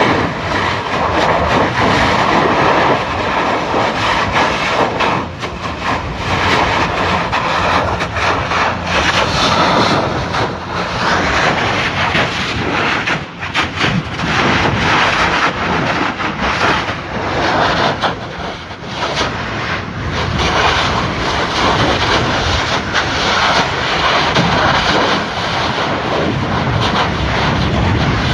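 Kilauea lava fissure erupting: a loud continuous roar broken by many rapid crackles and bursts.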